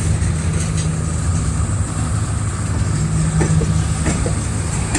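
CSX maintenance-of-way rail train rolling slowly past as it slows down: a steady low rumble of wheels on track with a steady low hum.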